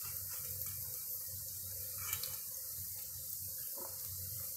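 Cauliflower florets sizzling steadily as they fry in hot mustard oil in a kadhai.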